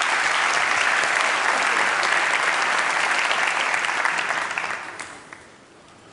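Audience applauding, a dense clapping that dies away about five seconds in.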